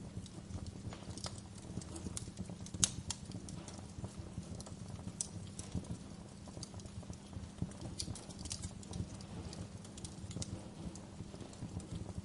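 Wood fire crackling, with irregular sharp pops and snaps over a low steady rumble; the loudest pop comes about three seconds in.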